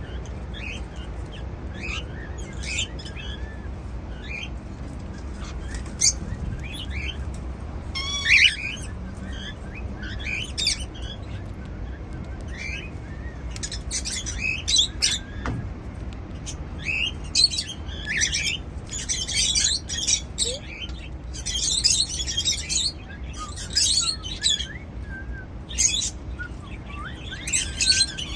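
Pet cockatiels chirping with many short high calls, sparse at first and coming thick and fast over the second half.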